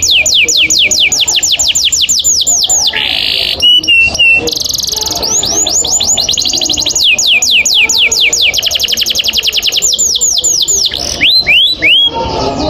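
Canary singing long rolling trills: runs of rapid, repeated downward-sweeping notes, about eight a second, broken about three seconds in by a short harsh buzz and a brief held note before the roll resumes.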